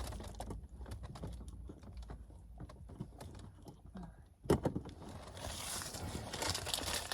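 Small plastic clicks and taps as a decorative clip is handled and pushed onto a car air vent, with one sharper, louder click about four and a half seconds in.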